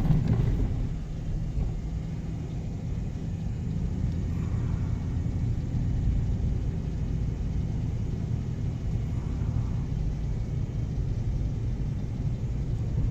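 Steady low rumble of a four-wheel-drive vehicle being driven, engine drone and road noise heard from inside the cabin.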